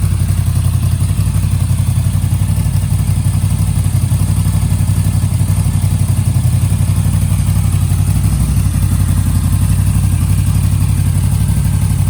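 Moto Guzzi V7 III's air-cooled 744 cc transverse V-twin idling steadily through a Mistral short exhaust, with an even, deep, pulsing exhaust note.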